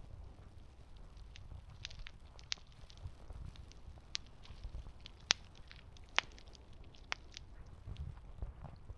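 Campfire crackling: scattered sharp pops and snaps from burning wood, two of them louder about five and six seconds in, over a steady low rumble.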